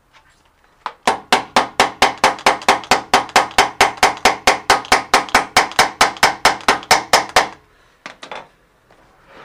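Rapid metal-on-metal hammer blows, about five a second for some six seconds, each with a short metallic ring: a part of a spin bike being knocked out with a makeshift drift held against it.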